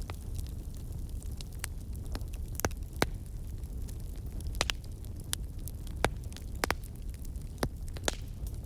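Fireplace fire crackling: irregular sharp pops and snaps, several a second at times, over a steady low rumble of the flames.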